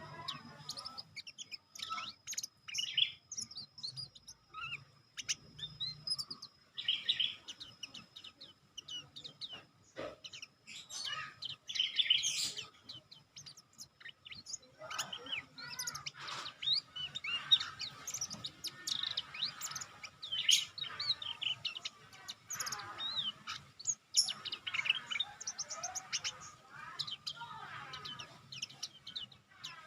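A songbird singing: quick high chirps and trills in short phrases, scattered at first and turning into dense, nearly unbroken song about halfway through.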